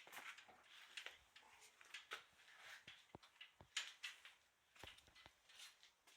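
Near silence, broken by faint scattered clicks and rustles.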